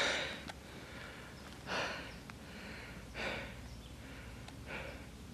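A man breathing hard, with four heavy exhales about a second and a half apart, catching his breath after exercise.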